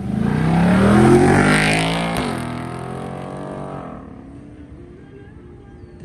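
A car leaving under hard acceleration, its engine note climbing as it revs. A sharp break about two seconds in sounds like a gear change. Afterwards the note falls and fades as the car pulls away.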